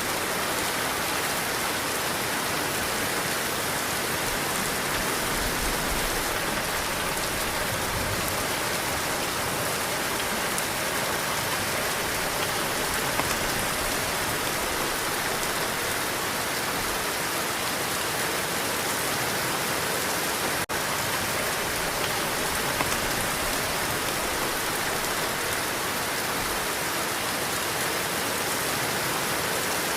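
Heavy rain falling steadily, a dense even hiss of drops on a surface.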